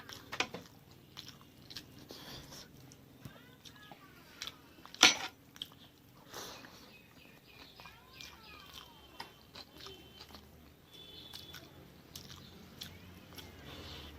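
A person chewing and biting food close to the microphone, with many short wet mouth clicks and smacks. One much louder sharp click comes about five seconds in.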